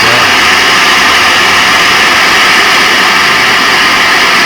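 P-SB7 spirit box, a radio-sweeping ghost-hunting device, played loud through a small external speaker at its highest setting: a steady hiss of radio static.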